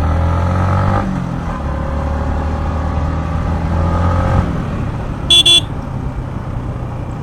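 Yamaha MT-15's single-cylinder engine running under way, with a short horn beep about five and a half seconds in.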